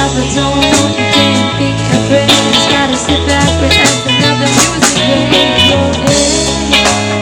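Live band playing an instrumental passage: guitar over bass and drums, with steady cymbal strikes.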